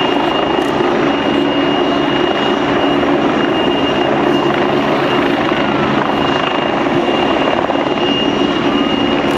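Helicopter running close by, a loud, steady rotor and engine noise with a thin, steady high whine over it.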